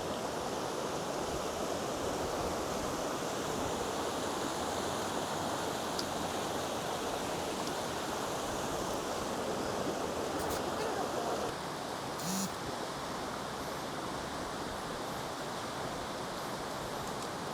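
Steady rushing of a stream or river over rocks, an even hiss of water that drops slightly in level about two-thirds of the way through.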